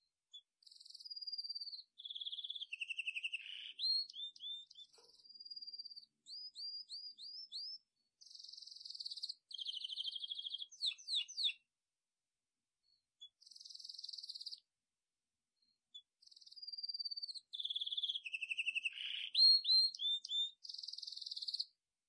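A songbird singing long, varied, high-pitched phrases of clear whistles, trills, buzzy notes and quick rising chirps, with short pauses between them. The same run of phrases comes round again near the end.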